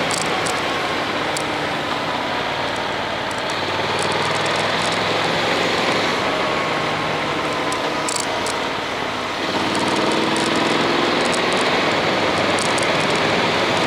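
Honda X-ADV's parallel-twin engine running while riding, under a steady rush of wind noise on the action-camera microphone. About two-thirds of the way in, the sound drops a little, then the engine note climbs again as it picks up.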